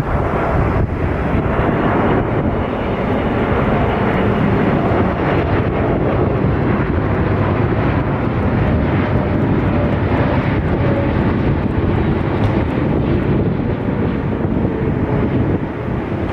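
Jet airliner engines: loud, steady jet noise with a faint whine that slowly falls in pitch as the aircraft passes.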